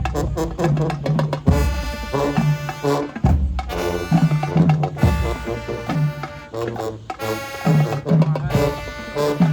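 High school marching band playing: sustained brass chords over drums, with heavy bass drum hits punctuating the phrases.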